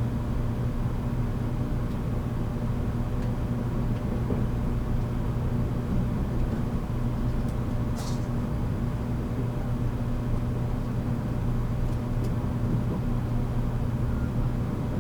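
Running sound inside a JR Kyushu 783-series electric limited express motor car at speed: a steady rumble with a steady low hum. A short sharp click comes about 8 seconds in.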